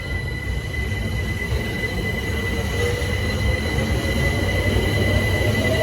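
Class 378 electric multiple unit pulling away, with a steady rumble and a steady high whine. A motor whine rises in pitch from about halfway through as it gathers speed.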